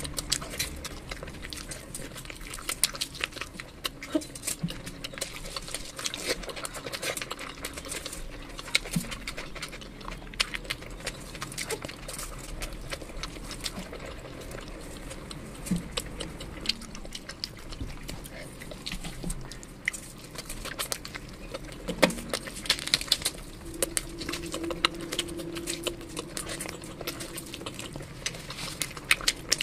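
Close-miked chewing and wet mouth smacks of someone eating chicken biryani by hand, a dense run of sharp, irregular clicks.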